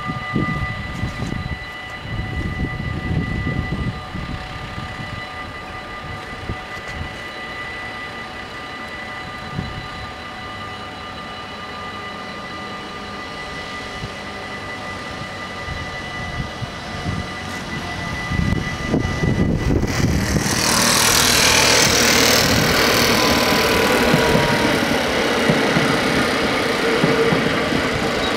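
Level-crossing bells ring steadily with the barriers down. About two-thirds of the way in, an NS Sprinter Lighttrain (SLT) electric multiple unit passes over the crossing, and its much louder running noise drowns out the bells.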